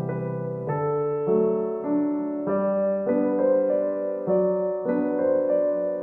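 Background piano music, a gentle electric-piano melody of notes changing about every half second.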